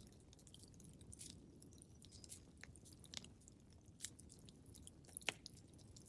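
Wood fire crackling faintly: irregular small pops and snaps over a low, steady rumble, with one sharper pop about five seconds in.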